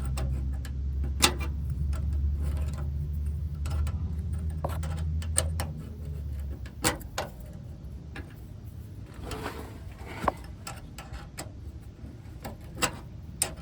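Irregular metallic clicks and taps of a wrench being worked at a stripped, rounded-off brake line nut, over a low rumble that stops about six and a half seconds in.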